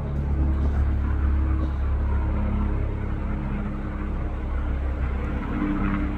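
Aircraft flying over: a steady low engine rumble with a pitched drone, and a tone that rises near the end as it approaches.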